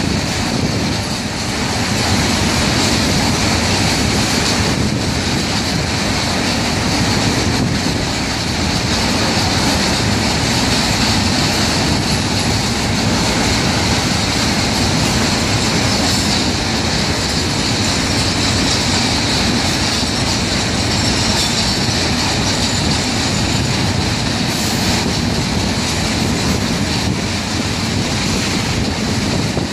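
Long freight train of tank wagons rolling past at steady speed: a continuous rumble of steel wheels on rail with clatter over the joints and a steady high metallic ring from the wheels.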